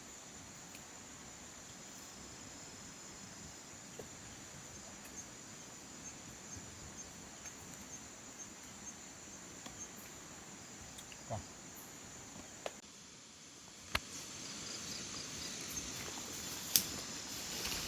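Forest insects, crickets, keep up a steady high-pitched trill, with a short run of evenly spaced chirps in the middle and scattered small clicks. Near the end a rustling noise grows louder and is broken by one sharp click.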